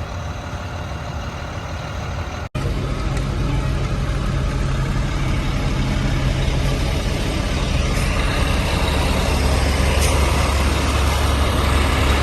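Large truck engine idling with a steady low rumble. It cuts out for an instant about two seconds in, then grows deeper and louder for the last few seconds.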